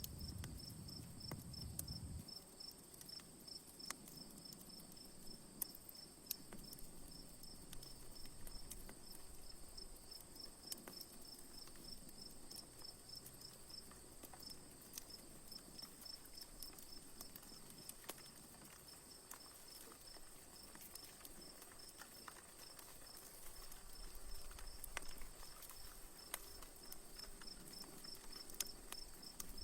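Sparse sharp crackles from a wood campfire over a steady chorus of crickets: a fast, even chirping of about five pulses a second with a continuous higher insect trill above it. A low rumble drops away about two seconds in.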